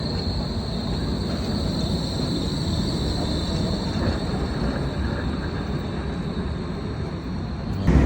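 Rail vehicle running with a steady low rumble and a thin high whine that fades away; just before the end it switches suddenly to a louder, heavier rumble.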